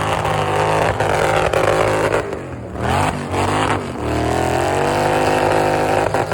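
A truck engine revving under load. The revs drop about two and a half seconds in, climb again and hold high, then start to fall right at the end.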